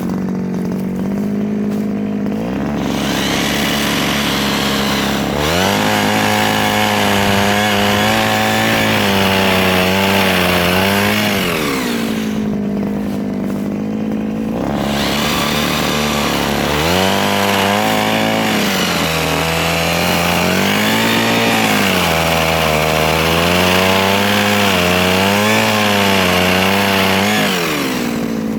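Mini chainsaw idling, then run up to high revs twice, its pitch sagging and wavering as the chain works through soft wood. It drops back to idle in between and near the end.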